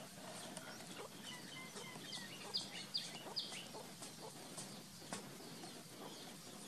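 Birds chirping outdoors, with a quick run of four short high chirps about two to three seconds in, over faint rural background noise.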